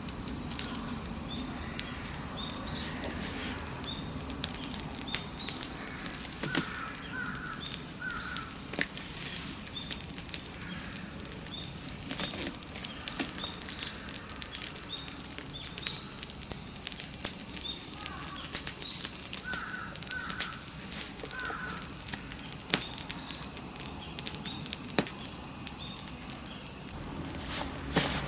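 Campfire crackling with frequent sharp pops, over a steady high hiss that cuts off near the end. A bird calls three times in quick succession, twice.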